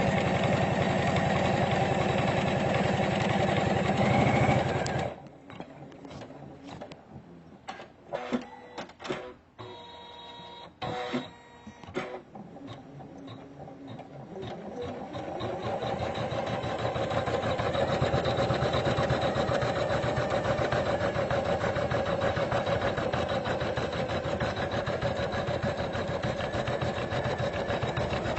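Computerized embroidery machine stitching at speed, stopping about five seconds in, then a quiet stretch with a few clicks and short tones before the machine starts again, speeds up and stitches steadily.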